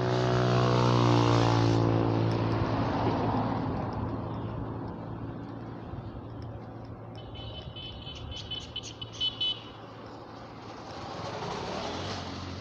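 A motor vehicle drives past on the road, its engine loud at first and falling in pitch as it goes by, then fading away. A few short high chirps come about two-thirds of the way through, and another vehicle approaches near the end.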